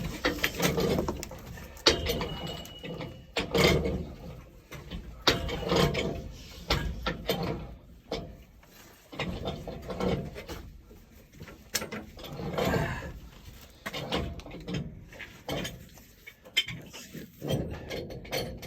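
Irregular clicks, clinks and knocks of hand tools and pipe fittings being handled while a joint is prepared for soldering, with a brief high steady tone about two seconds in.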